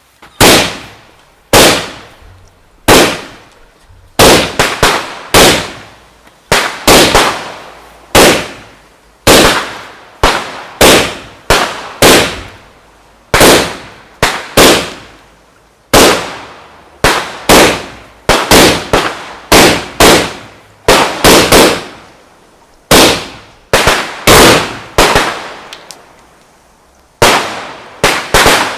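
Firework going off in a long series of loud bangs, about one a second with some in quick pairs, each bang trailing off in a short echo. It was sold as a quiet firework, but it is not that quiet.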